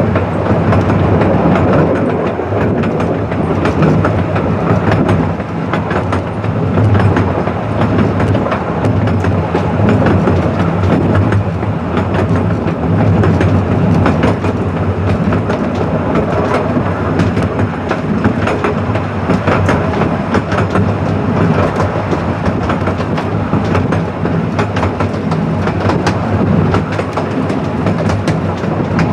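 A 12¼ in gauge miniature railway train on the move, heard from aboard: a steady rumble of wheels on rail with rapid, continual clicking from the track.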